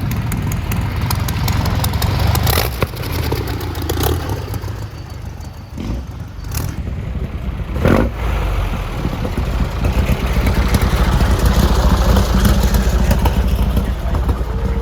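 A vehicle engine running close by with a steady low rumble, with a sharp bang about eight seconds in and the engine getting louder over the last few seconds.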